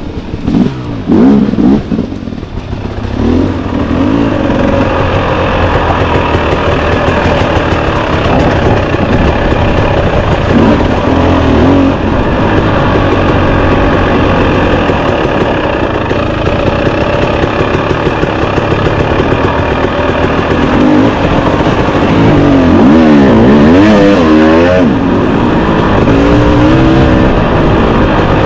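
Husqvarna 300 TX two-stroke dirt bike engine running under load, the revs rising and falling with the throttle, with a stretch of quick up-and-down revving near the end.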